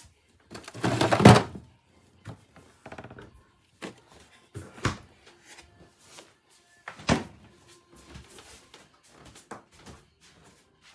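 A series of thuds and knocks, the loudest a noisy burst about a second in, then sharp knocks around five and seven seconds in, with lighter clicks between.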